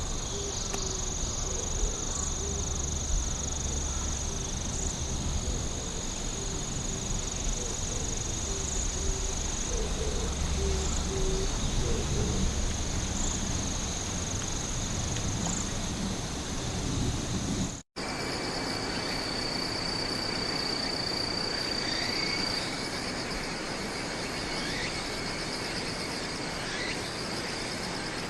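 Night insects calling, crickets and the like, in a steady high trill with a low rumble beneath. About 18 s in the sound drops out for an instant and switches to a different insect chorus, pitched lower. Its steady tone stops a few seconds later, leaving scattered chirps.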